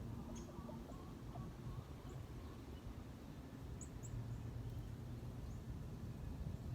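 A few faint, short, high bird chirps, scattered and unhurried, over a steady low background rumble.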